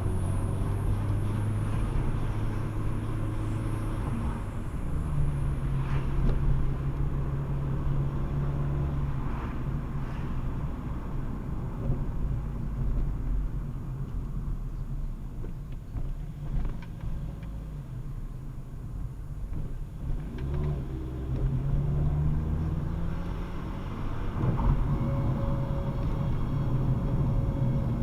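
A car running, with a steady low drone whose pitch steps up or down a few times, and faint scattered clicks. It was recorded to capture an abnormal noise.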